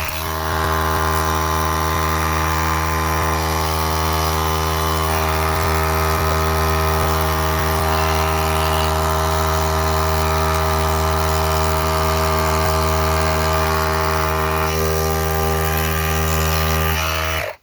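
A motor-driven workshop machine running at a steady pitch for about seventeen seconds, starting suddenly and cutting off suddenly near the end.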